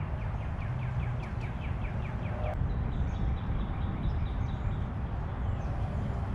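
A songbird singing a fast trill of quick falling notes, then a higher series of notes about halfway through, over a steady low rumble.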